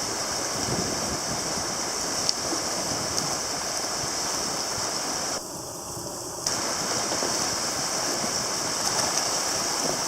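Rain-swollen river rushing in flood, a steady noise of fast water carrying broken ice and debris, with a few faint knocks. The sound dips for about a second midway.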